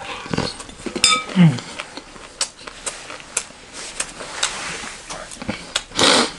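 Close-miked crunchy chewing of chatpatey, a spicy puffed-rice snack, heard as many small crackling clicks. About a second in, a metal spoon clinks against a glass bowl with a short ring, followed by a brief hummed 'mm'; a short breathy hiss comes near the end.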